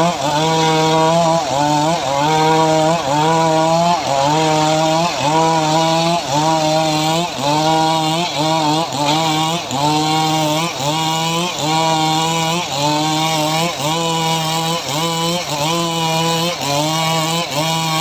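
Engine of a homemade srekel sawing rig running under load while cutting mahogany, its pitch dipping and recovering about once a second with each stroke of the cut.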